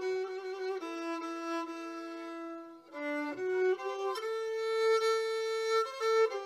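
Black Sea kemençe, a three-stringed bowed fiddle, playing a melody of held notes that step in pitch, with a brief dip about three seconds in.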